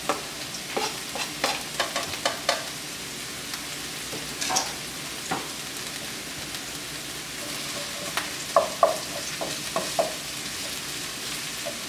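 Diced purple onion and garlic sizzling in olive oil in a frying pan. A quick run of light taps in the first couple of seconds as the garlic is knocked off a plastic cutting board into the pan, and a few louder strokes near the end as a wooden spoon stirs and scrapes the pan.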